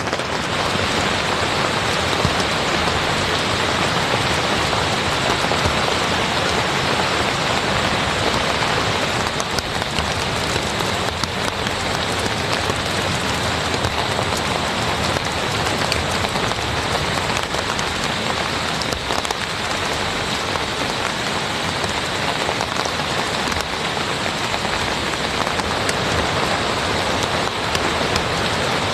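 Steady rain falling: a dense, even hiss of drops that holds at the same level throughout.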